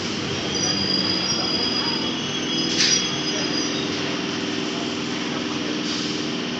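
Indian Railways EMU local train running on the track, its wheels squealing high over a steady rumble and hum, with one short sharp clank about three seconds in.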